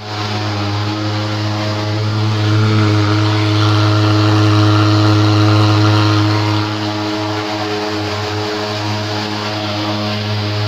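A nearby engine running steadily at an unchanging pitch. It grows louder for a few seconds in the middle, then eases back.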